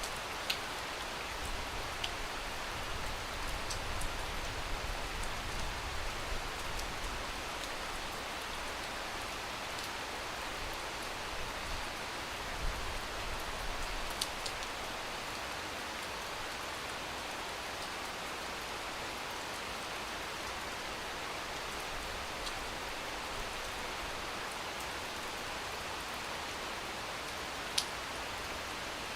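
Steady rain falling, an even hiss with a few sharp ticks here and there.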